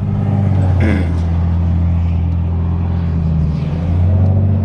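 Infiniti G35's straight-piped VQ35 V6 droning steadily at a cruise, its pitch dipping briefly about three and a half seconds in before picking back up.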